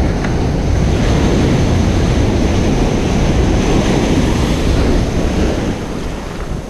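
Ocean surf: a wave breaking and washing up the beach in a loud, steady rush that eases off near the end, with wind buffeting the microphone.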